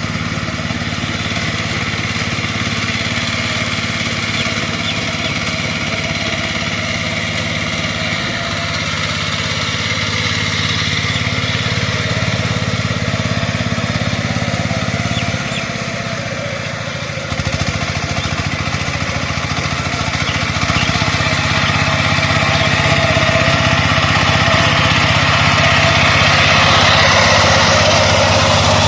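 Tractor engine running steadily, its note shifting a few times, dipping briefly about two-thirds of the way through and then growing louder toward the end.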